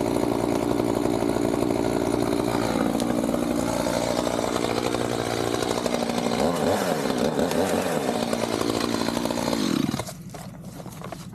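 Chainsaw running and cutting into pecan wood, its engine pitch wavering under load partway through, then dropping off sharply about ten seconds in as the saw comes off the throttle.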